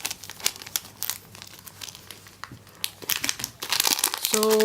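Plastic packaging crinkling and crackling in irregular bursts as squishy toys are handled, getting busier about three seconds in.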